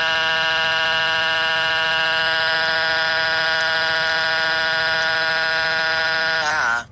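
A loud, steady electronic buzzing tone held for about eight seconds, wavering and bending in pitch just before it cuts off.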